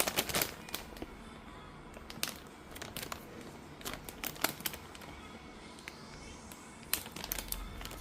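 Irregular sharp clicks and light taps of things being handled, with some crinkling.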